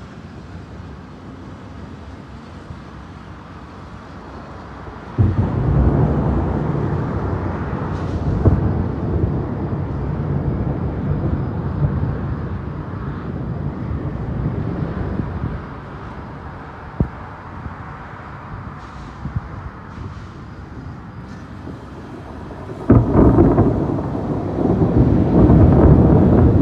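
Thunder in a thunderstorm: a sudden clap about five seconds in that rolls on as a deep rumble for about ten seconds, then a second loud clap and rumble near the end, over a steady background hiss.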